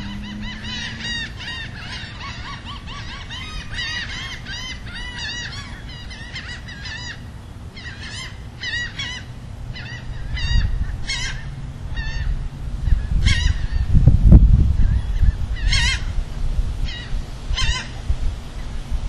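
Birds calling: rapid, overlapping chattering calls at first, thinning to separate sharp calls after about seven seconds. A low rumble builds from about ten seconds in and is loudest around fourteen seconds.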